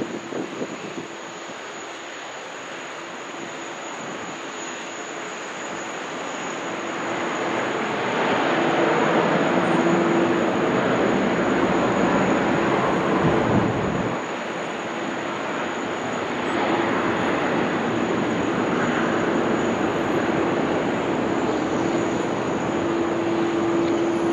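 Jet airliner engines running. The noise builds over the first eight seconds and then holds steady, with a steady low hum underneath.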